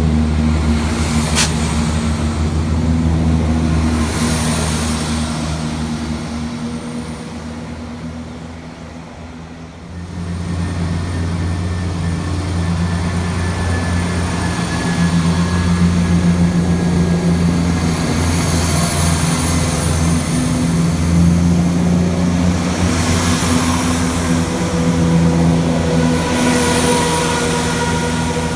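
Diesel train engine running with a steady low drone. It fades away, then comes back suddenly about ten seconds in with the same kind of engine sound.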